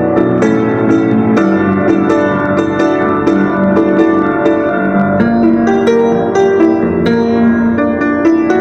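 Piano music: an instrumental passage of struck notes and chords in quick succession, with no singing.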